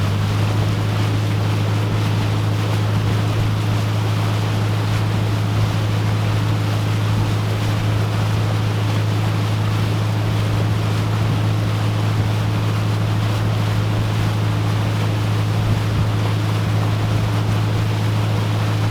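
Motorboat engine running at a steady low drone, with wind and water rushing past.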